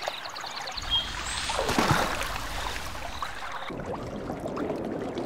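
Water moving and lapping at the surface, with a low rumble coming in about a second in; about three and a half seconds in it cuts to a duller, muffled underwater sound.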